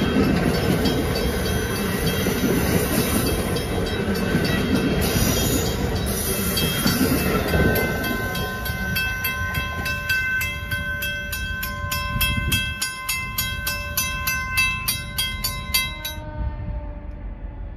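Amtrak passenger cars rumbling past on the rails, the noise easing as the train pulls away. From about halfway, a grade-crossing warning bell dings rapidly and steadily, about three to four dings a second, until it cuts off abruptly near the end.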